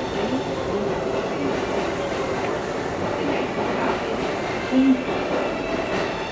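Inside an R179 subway car standing at a station stop: a steady hum and rumble from the car, with faint station noise. A short, louder low tone sounds near the five-second mark.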